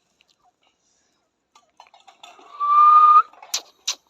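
Quaker parrot giving one held, whistle-like note that rises slightly at its end, about two and a half seconds in, followed by two sharp clicks.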